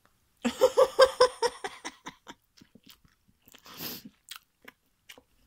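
Someone biting into and chewing a natto sushi roll wrapped in crisp nori seaweed, close to the microphone. A quick run of loud crunches comes about half a second in, followed by softer, scattered chewing sounds.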